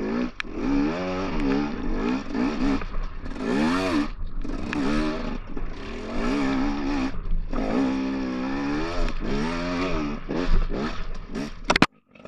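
Dirt bike engine revving up and down over and over as it is ridden, with a few short knocks. It cuts off suddenly near the end.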